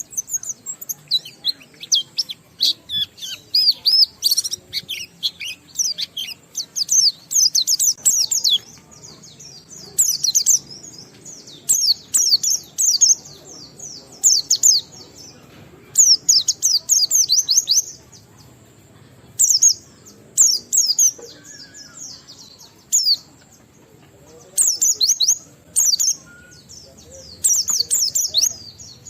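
A pleci (white-eye) singing its long, continuous 'ngalas' song: phrases of rapid, high twittering chirps about one to two seconds long, following one after another with brief pauses.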